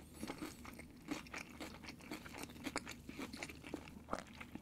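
Close-miked chewing of a person eating, with many small, irregular wet mouth clicks and crackles.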